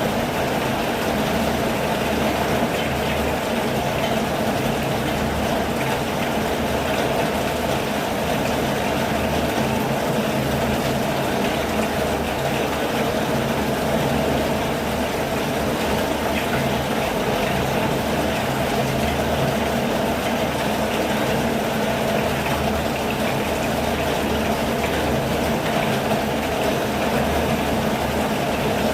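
Steady rain falling, an even unbroken hiss with a low rumble underneath.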